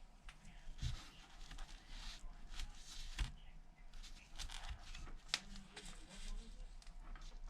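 Scattered small clicks and brief rustles of hands handling phone parts and cables on a repair bench, with a sharper click about a second in and again past the three-second mark.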